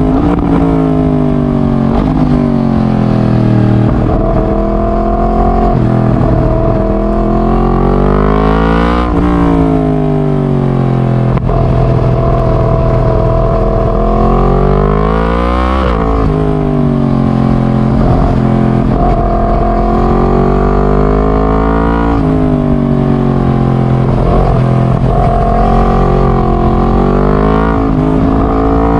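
Yamaha MT-10's crossplane (CP4) inline-four running loud through a decat straight-pipe exhaust, its revs climbing and falling over and over, with a few sudden drops in pitch.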